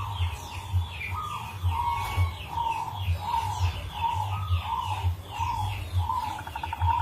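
Zebra dove (perkutut) cooing: a long run of short coo notes, two to three a second.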